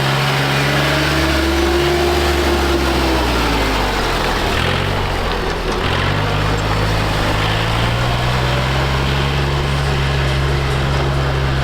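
Tractor engines running steadily. One engine note rises and falls briefly in the first few seconds, and the engine tones shift about halfway through before settling again.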